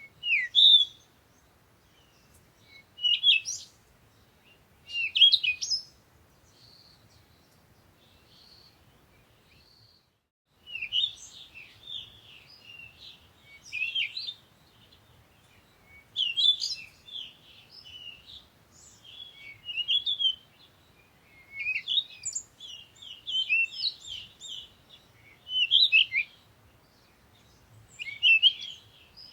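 Songbirds chirping and singing in short, high phrases. A few separate phrases come in the first six seconds, then a lull with only faint high notes, and from about eleven seconds on the chirping is nearly continuous.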